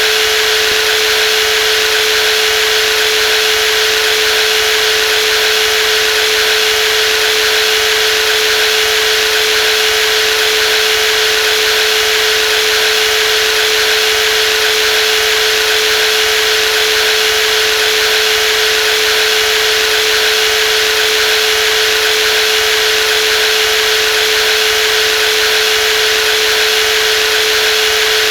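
Brushless electric jigsaw running steadily at constant speed, a high whine with a strong steady tone and a hiss, unchanging throughout.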